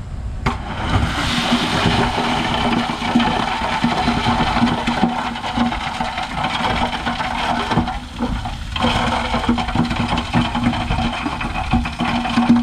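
Heavy diesel machinery running under load: a steady engine hum with frequent metallic clanks and knocks, easing briefly about eight seconds in.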